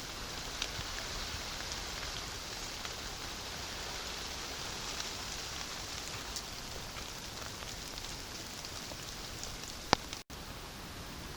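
Steady rain falling, with scattered ticks of drops and one sharp tap a little before the end.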